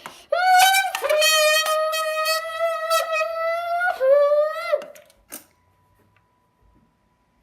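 Mock Lamborghini engine noise made by buzzing or humming into a squeezed drink can: one steady, horn-like buzz lasting about four and a half seconds, with a couple of short breaks early on. It rises in pitch near the end, then drops away and stops.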